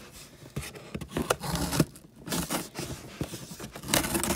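Irregular scraping, rubbing and clicking as a cardboard shipping box is cut and pulled open, with a longer, louder scrape near the end.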